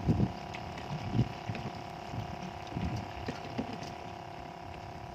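Wind buffeting the microphone in irregular low gusts, over a faint steady hum.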